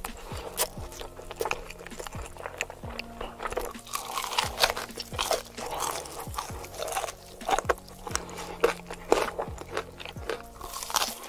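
Loud, crisp crunching bites and chewing of glazed fried chicken wings, mukbang-style close to the microphone, repeated many times. Background music with low sliding bass notes plays under it.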